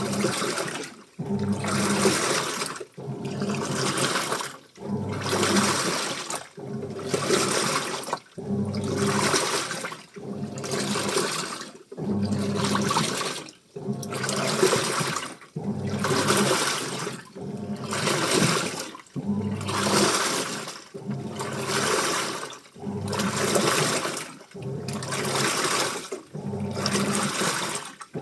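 Washing machine on its wash cycle: water and laundry sloshing in regular surges about every two seconds, with a short pause between strokes, and the motor humming under each surge.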